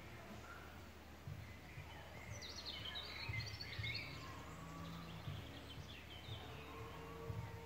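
Birdsong: a burst of quick, high twittering chirps and short falling notes about two to four seconds in, with fainter chirps later, over an uneven low rumble.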